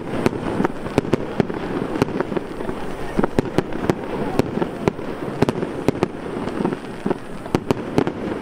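Aerial fireworks shells bursting: a rapid, irregular string of sharp bangs and pops, several a second, over a steady background of crowd noise.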